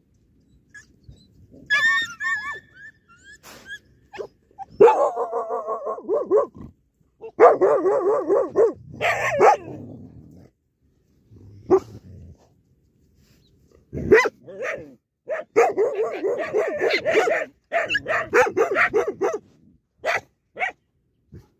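Several dogs snarling, growling and barking at each other at the food, in long wavering bouts with short sharp barks between them, and a high-pitched whine about two seconds in.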